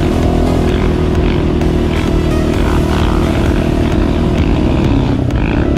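Quad bike (ATV) engine running at a steady speed, a loud, even drone with no revving up or down.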